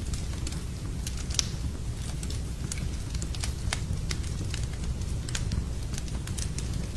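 Wood fire in a fireplace crackling, with irregular sharp pops, one louder than the rest about a second and a half in, over a steady low rumble.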